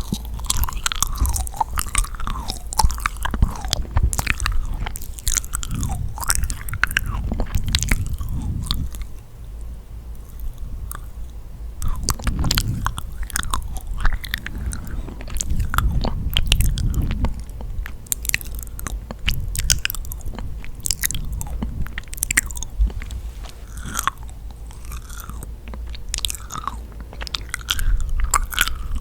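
Close-miked biting and chewing of yakgwa, a sticky, honey-soaked Korean fried cookie: soft bites, wet sticky clicks and mouth smacks, a little quieter about nine to twelve seconds in.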